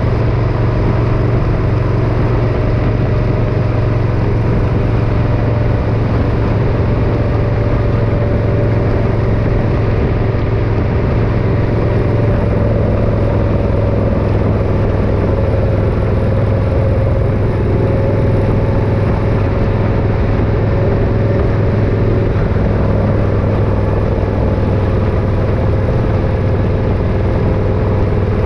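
Motorcycle engine running steadily under way, a constant low hum with a higher tone that drifts slowly in pitch.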